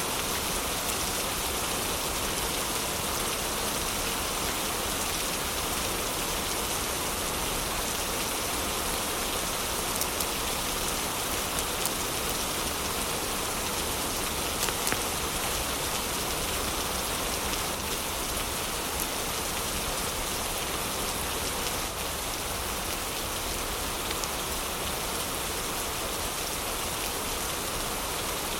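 Heavy rain falling steadily as an even hiss, with a few sharper drop ticks standing out briefly about halfway through.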